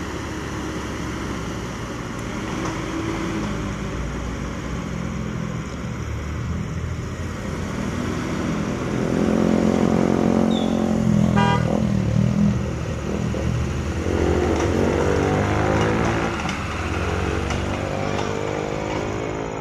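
Nissan Terrano's engine revving hard under load while towing a heavy truck through mud. The note climbs and wavers, loudest around the middle, with a brief horn-like toot about eleven seconds in.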